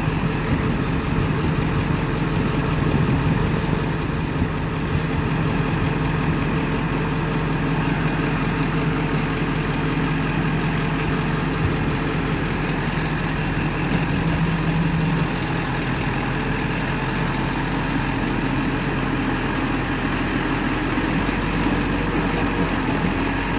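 Crane truck engine running steadily at raised revs to drive the PTO hydraulic pump for the crane. The pitch shifts slightly about fifteen seconds in.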